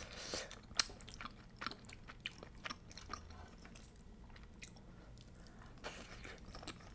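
Quiet close-miked chewing of creamy shrimp penne pasta: soft, wet mouth clicks and smacks scattered through, with another forkful taken near the end.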